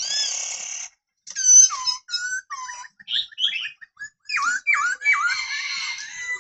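Black-throated laughingthrush singing: a harsh, rasping note at the start, then a varied run of clear whistled phrases, many of them sliding down in pitch.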